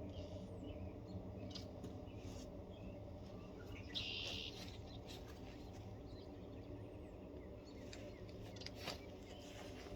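Faint outdoor background: a steady low hum, one short high chirp about four seconds in, and a few soft clicks.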